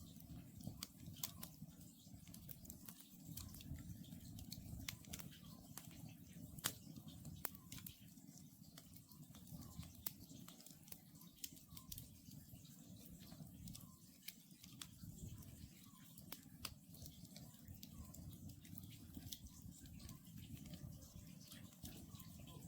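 Wood campfire crackling with irregular sharp pops over a steady low rumble of burning. Faint short calls of an Oriental scops owl repeat about every two seconds.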